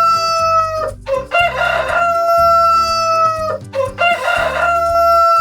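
Rooster crowing, cock-a-doodle-doo, three times: one crow ending about a second in, a full crow, and another starting near the end, each a long held call that drops in pitch as it ends.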